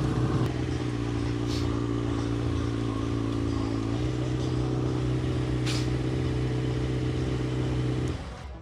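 A vehicle engine running at a steady held speed at a car meet, rising slightly in pitch about halfway through, then stopping abruptly near the end.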